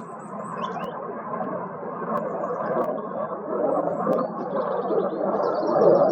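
Distant fighter jet's engine roar, a rough rumbling noise that swells toward the end as the jet approaches, with small birds chirping faintly over it.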